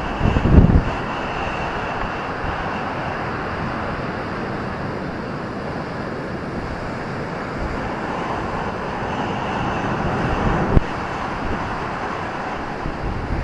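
Ocean surf breaking in a steady roar of waves, with wind buffeting the microphone in the first second and once more in a brief thump near the end.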